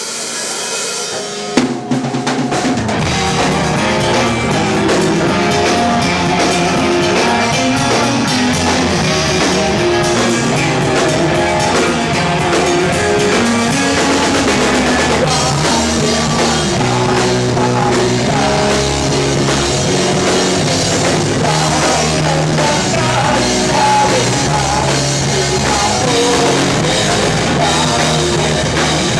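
Rock band playing live, led by a drum kit. The full band comes in together with a loud hit about two seconds in and plays on steadily.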